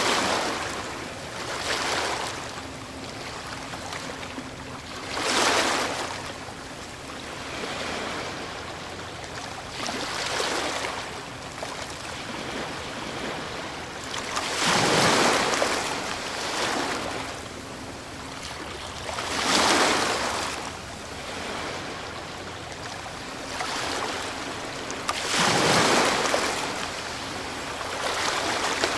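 Ocean waves breaking on a shore, each wave rising to a loud rush of surf and falling away, one every few seconds, over a steady wash of water.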